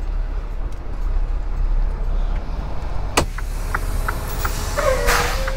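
Semi truck's engine idling with a steady low rumble. A sharp click comes about three seconds in, followed by a run of quick ticks, and a short hiss of air near the end.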